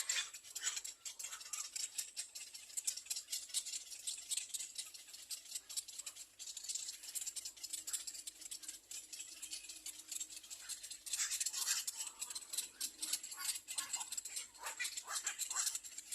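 Little egret chicks begging for food in the nest: a dense, rapid clicking chatter throughout, with louder short calls breaking in during the last few seconds.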